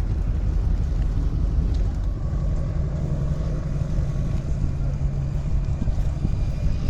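A vehicle engine running steadily over a low rumble, with a steady hum coming in about three seconds in.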